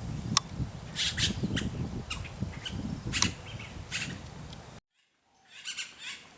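Wild birds giving short, harsh calls about twice a second, a few of them sliding down in pitch, over a low rumble. The sound cuts out abruptly near the end, then fainter calls return.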